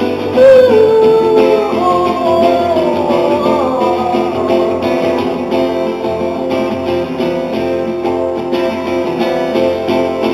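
Live band music with guitar: strummed chords under a melody line that slides and wavers in pitch over the first few seconds.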